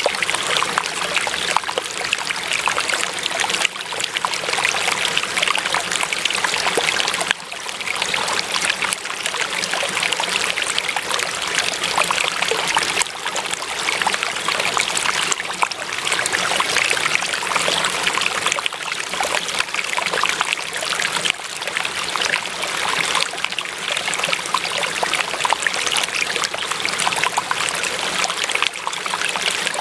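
Running water, flowing steadily without a break.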